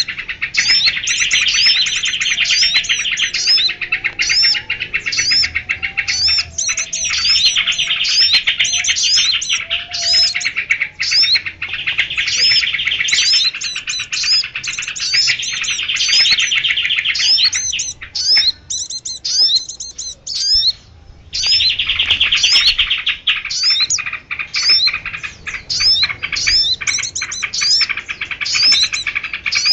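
A dense mixed chorus of many small birds chirping and trilling at once: sharp, quickly repeated high notes over a continuous buzzy twitter, thinning briefly about two-thirds of the way through. It is a bird-catcher's lure call of mixed small birds.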